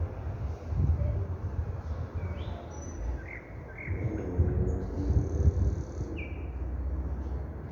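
Nightingale singing: a few short sliding notes, then one long high whistle, over a loud low rumble.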